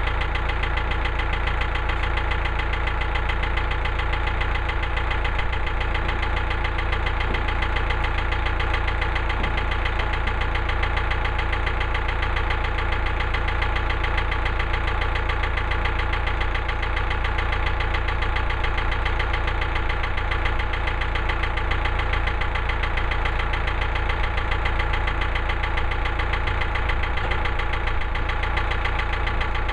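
Small gasoline engine of a Woodland Mills HM130 Max portable sawmill running steadily at an even speed.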